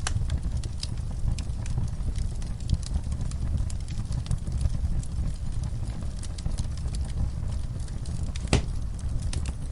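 Fireplace fire crackling: a steady low rumble of flames with irregular sharp crackles, and one louder pop near the end.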